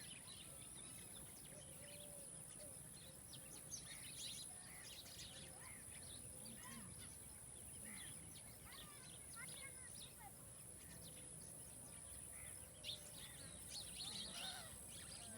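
Faint outdoor farm ambience with several birds chirping and calling in short, overlapping notes, over a steady high-pitched hiss.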